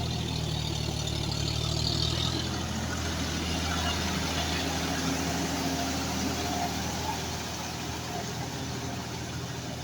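John Deere 5105 tractor's three-cylinder diesel engine running steadily under a broad rushing noise. The sound swells a little in the middle and eases off near the end.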